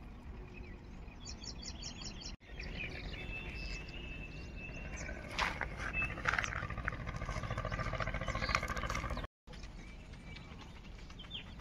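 Birds chirping and calling, with short high trills and calls, over a steady low outdoor background noise that drops out briefly twice.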